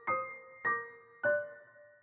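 Background music: a slow keyboard melody, single notes struck about every half second and left to fade, three notes in all.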